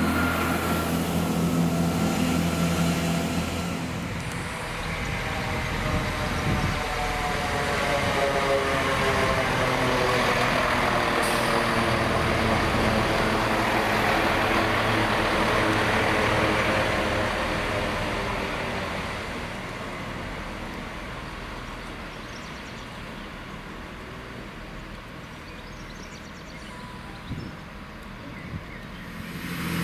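Chiltern Railways diesel multiple unit running past the platform. The engine and wheels on the rails grow loudest midway, then fade into the distance. Right at the end the engines of another approaching diesel unit come in.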